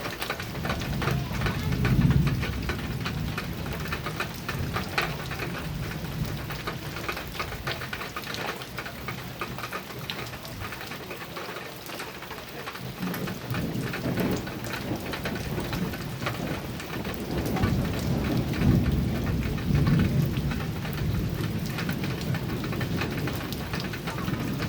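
Heavy rain falling on a metal roof, a dense patter of drops, with low rolls of thunder, one about two seconds in and a longer one through the second half.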